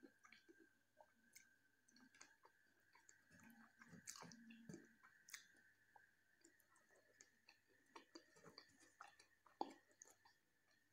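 Faint chewing with soft wet mouth smacks and scattered small clicks as pieces of jackfruit curry are eaten by hand, over a faint steady high-pitched tone.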